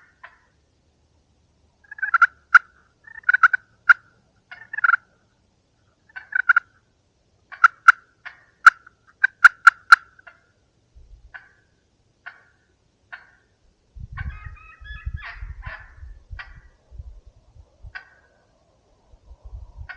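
Turkey calls in short repeated bursts, loudest and most frequent between about two and ten seconds in, thinning out after. Near the end, softer calls come with a run of low thumps.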